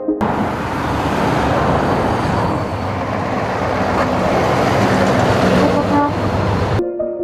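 Heavy truck's engine running, a steady noisy rumble that grows slowly louder, then cuts off suddenly near the end.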